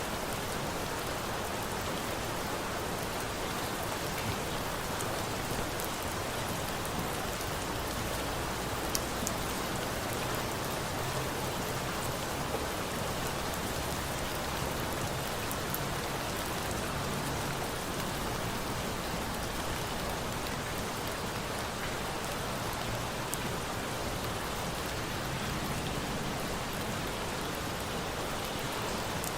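Steady rain falling on a surface, an even hiss without letting up, with a few sharp clicks now and then.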